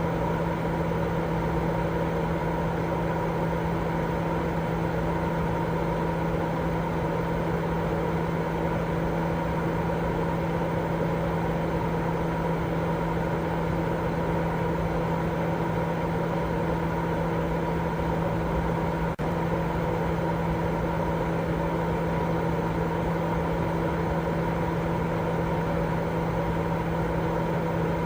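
Continuous white-noise sleep sound: a steady, low rushing noise with a constant motor-like hum in it, with one momentary dropout about two-thirds of the way through.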